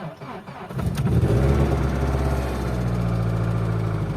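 Opel C20XE 16-valve four-cylinder engine cranked cold by the starter, catching about a second in and settling into a steady idle. Its hydraulic lifters clatter briefly, as they usually do on a cold start before oil pressure fills them.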